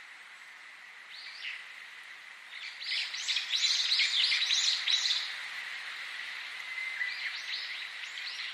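Small songbirds chirping: a few chirps, then a rapid run of quick chirps in the middle that is the loudest part, then more scattered chirps near the end, over a steady faint hiss.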